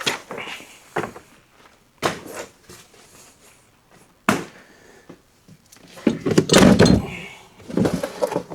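Clunks and knocks of junk and parts being shifted around in the back of an old SUV: three separate sharp knocks, then a heavier, longer clatter with a deep thud about six seconds in.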